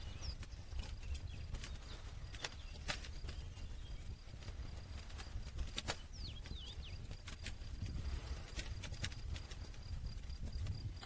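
Wood fire crackling: irregular sharp pops and snaps over a low, steady rumble of burning. A few faint high chirps sound about half a second in and again near the middle.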